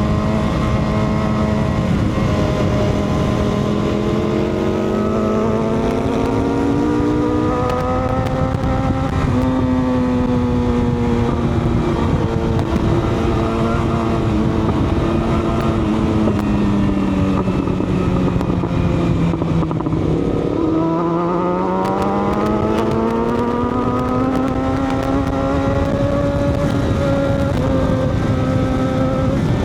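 Motorcycle engine running under way. The revs climb, drop suddenly about a third of the way in, then sink slowly for several seconds. They dip once more and climb again, holding fairly steady near the end.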